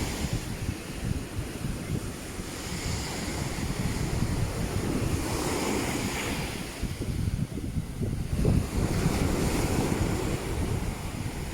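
Sea waves breaking and washing up on a beach, the hiss swelling and falling every few seconds, with wind buffeting the microphone.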